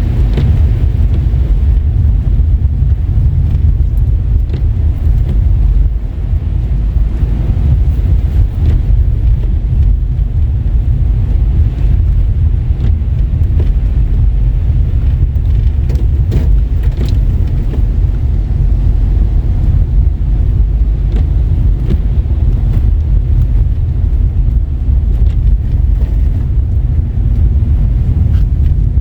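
A car driving: a steady low rumble of engine and tyres on the road.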